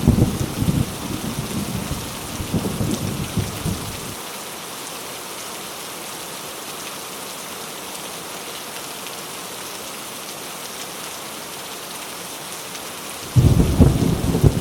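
Heavy rain falling steadily. Thunder rumbling at the start dies away after about four seconds, and a sudden loud thunderclap breaks in near the end.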